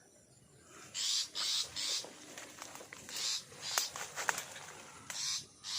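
Long-tailed shrike giving harsh, raspy scolding calls in short bursts, two or three at a time, several times over: the parent's alarm at its nest being raided. A couple of sharp clicks come in the middle.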